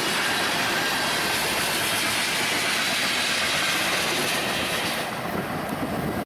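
A passing train's cars make a steady rush of wheel and rail noise, which cuts off suddenly at the end.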